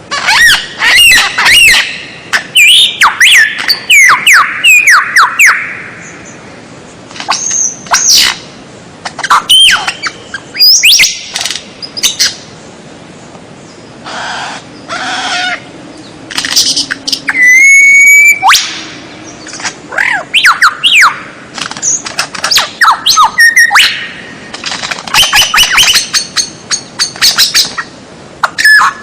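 Loud songbird song in bursts of rapid whistled notes and sweeping trills with short pauses between them, and one long held whistle about two thirds of the way through. It is a masteran, a tutor recording of birdsong used to teach caged songbirds.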